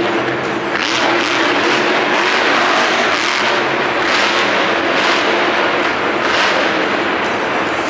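Monster truck engine running loud in an arena, surging several times as it revs.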